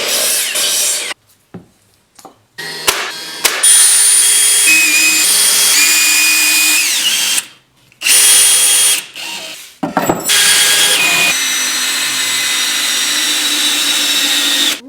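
Handheld power drill running in four bursts with short pauses between them. Its motor whine steps and slides up and down in pitch as the trigger is squeezed and eased.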